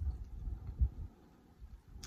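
Close-miked chewing of a mouthful of creamy baked pasta: soft, muffled mouth sounds that die away about a second in.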